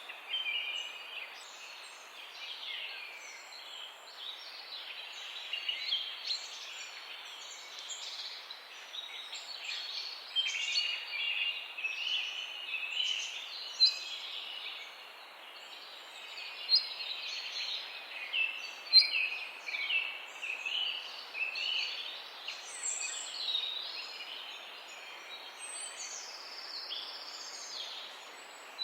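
Many small birds chirping and calling over one another in a morning chorus, with quick overlapping chirps and trills and a few louder, sharper calls, over a steady background hiss.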